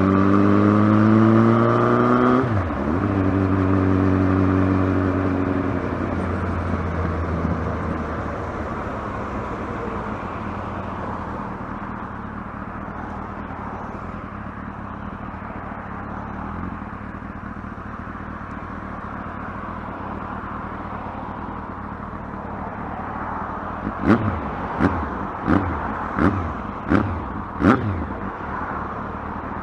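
Kawasaki ZX-12R's inline-four engine accelerating hard, its note climbing then dropping suddenly as at a gear change, and running on at a steadier pitch that fades away over several seconds. After a stretch of quieter steady rushing noise come six short, sharp bursts near the end.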